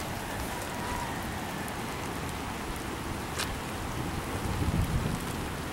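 Steady rain falling, with a single click about three and a half seconds in and a brief low rumble near the end.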